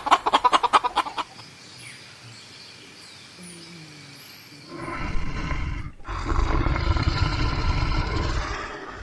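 Chicken clucking in quick repeated notes for about the first second, then quiet. About halfway through a different large animal gives a deep, loud call in two long stretches, broken by a brief gap.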